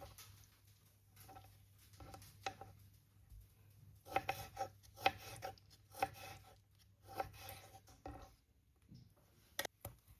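Food being cut on a cutting board in short, irregular bursts, with a couple of sharp clicks near the end.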